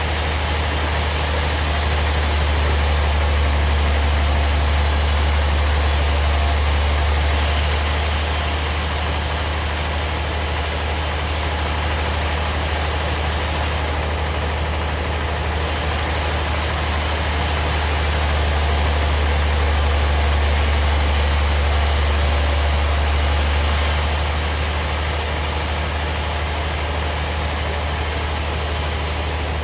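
Bandsaw sawmill running with a steady low drone, its blade noise rising to a louder hiss in two long stretches as it cuts through wood.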